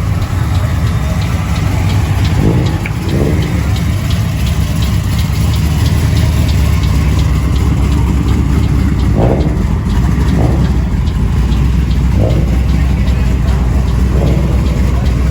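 Car engine running steadily at idle with a deep rumble, with a few short voice-like rises in the crowd noise.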